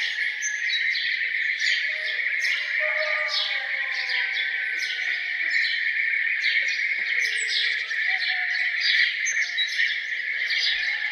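Morning chorus of several songbirds: quick high chirps repeated about twice a second, with slower, lower whistled notes, over a steady high-pitched drone.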